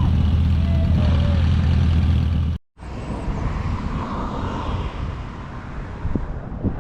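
A vehicle engine running close by with a steady low hum. About two and a half seconds in, the sound cuts out abruptly and is followed by quieter outdoor noise of traffic.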